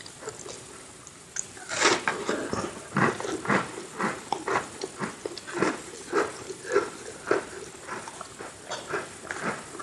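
Close-miked bite into a crunchy Oreo sandwich cookie about two seconds in, followed by steady crunchy chewing at about two chews a second.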